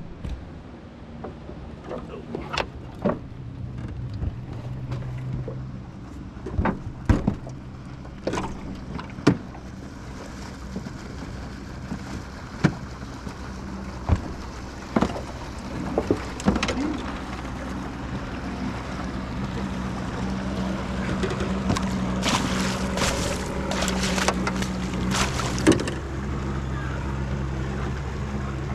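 Outboard motor of a passing motorboat running at a steady pitch, growing louder in the second half as it comes closer, with scattered sharp knocks and clicks.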